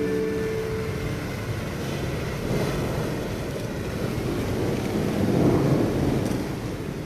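Rain and a rolling thunder rumble from the song's backing track, swelling about five seconds in and then fading. The last held note of the music dies away in the first second.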